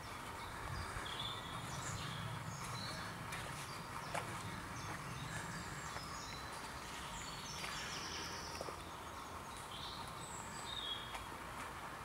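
Woodland birdsong: several birds singing short chirps and phrases throughout, over a low steady rumble.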